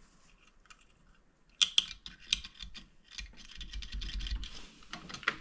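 Small metal engine parts clicking and rattling as they are handled and fitted by hand: a quick, irregular run of light clicks starting about a second and a half in, with a few low bumps partway through.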